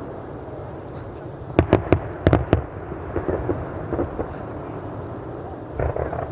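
Fireworks going off over a continuous low rumble of booming shells. About a second and a half in comes a quick run of about six sharp cracks, and a few more bangs follow near the end.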